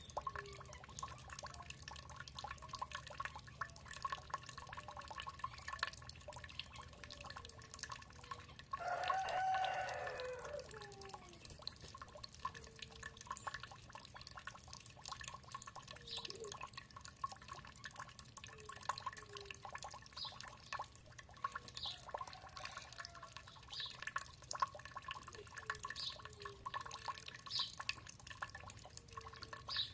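Water dripping steadily, with one loud rooster crow about nine seconds in, and short bird chirps scattered through.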